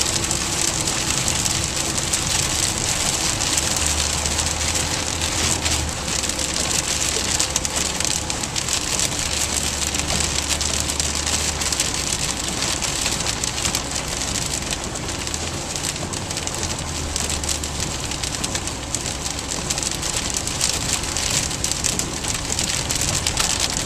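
Heavy rain pelting a car's roof and windshield, a dense steady patter heard from inside the cabin, with the low hum of the car underneath.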